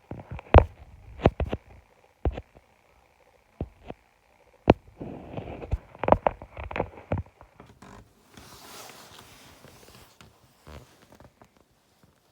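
Fireworks going off: a run of irregular sharp bangs and cracks over the first seven seconds, followed by a fainter crackling hiss.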